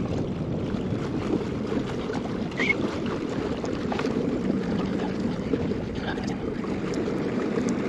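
Steady wind noise on the microphone, with water sounds around the kayak and a few faint clicks.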